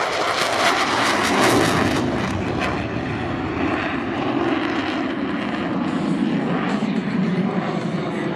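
Military jet aircraft flying past, its engines a continuous loud roar. The roar is loudest and harshest about one to two seconds in, then settles into a steadier, lower rumble.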